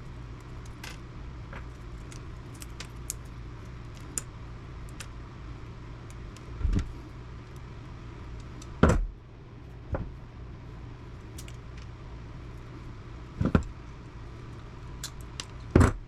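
Hand tools and small metal scrap parts clicking and clinking as they are worked and handled, with a few louder knocks scattered through, over a steady low hum.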